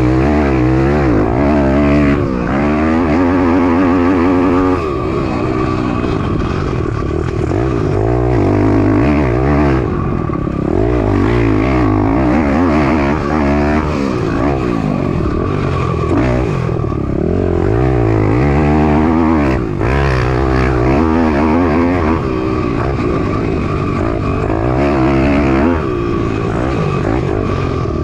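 Piranha 190 pit bike's single-cylinder four-stroke engine being ridden hard, revving up and falling back again and again as the rider goes through the gears and off the throttle around the track.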